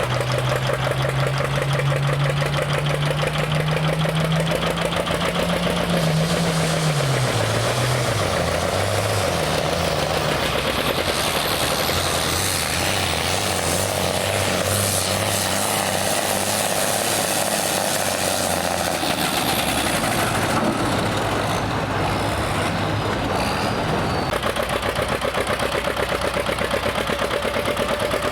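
A modified farm pulling tractor's engine runs hard under load. Its pitch climbs slowly for the first six seconds or so, then drops over the next few seconds as the engine is pulled down under the sled, and runs on at the lower pitch.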